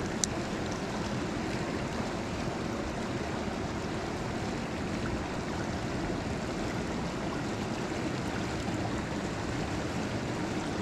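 Fast-flowing river water rushing steadily, with one sharp click just after the start.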